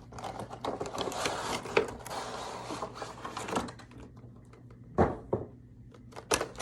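Cardboard box being opened and its packaging handled: rustling and scraping with small clicks for about four seconds, then a few sharp knocks.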